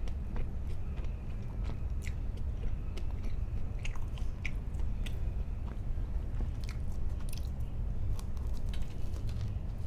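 Close-miked chewing and biting of bread, with many small sharp wet clicks and crackles from the mouth, over a steady low hum.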